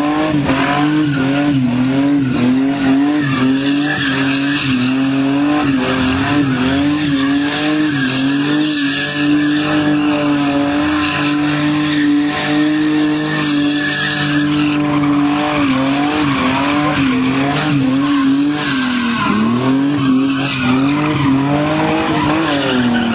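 Toyota Celica Supra's 5M-GE straight-six held at high revs in a skid, its pitch wavering up and down as the throttle is worked, with tyres squealing. The revs dip a few times and fall away near the end.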